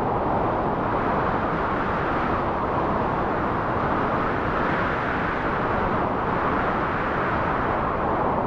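Wind blowing steadily, a dense rushing noise that swells and eases slowly.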